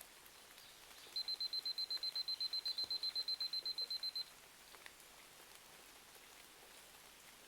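Digital timer alarm beeping rapidly, about eight high beeps a second for some three seconds starting about a second in, marking the end of a timed study interval. A steady hiss of rain runs underneath.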